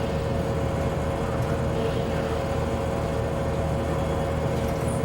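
Bowling alley room tone: a steady low rumble of ambience with a constant hum, faint indistinct sounds scattered through it.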